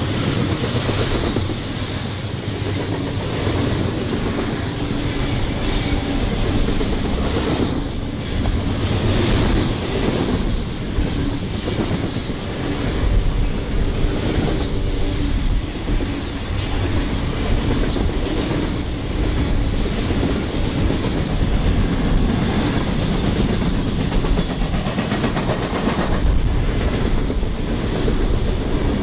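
Freight train cars rolling past, wheels clattering over the rail joints in a steady run of clicks.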